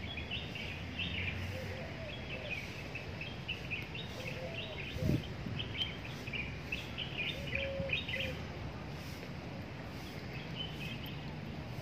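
Many small birds chirping in the trees in quick, overlapping bursts over a steady low background hum. A brief low thump about five seconds in.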